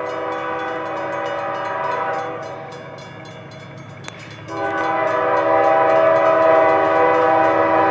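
Train horn sounding a long blast of several notes together, which eases off about two seconds in, then a second, louder long blast from about four and a half seconds in, over the low rumble of the approaching train.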